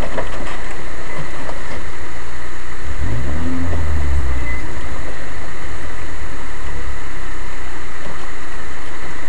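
Off-road vehicle's engine running under a loud, noisy onboard microphone, with a rising rev about three seconds in.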